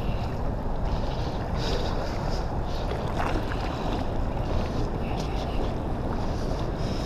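Steady wind buffeting the microphone, mixed with the rush of water.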